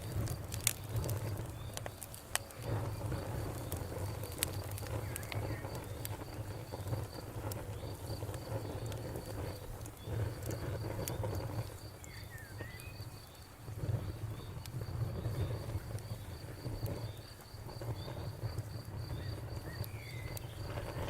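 Campfire burning with a low, uneven rumble and scattered sharp crackles and pops of burning wood, with a cricket chirping steadily in a fast, even pulse behind it.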